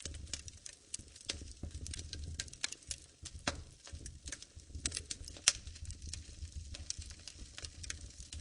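Wood fire crackling in a fireplace: irregular sharp pops and snaps over a low steady rumble, with one louder pop about five and a half seconds in.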